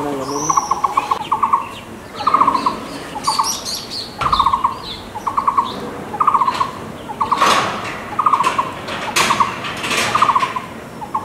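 An animal, most likely a bird, calls over and over with a short rapid rattling trill, about three every two seconds. Fainter, higher bird chirps and a few sharp clicks sound between the trills.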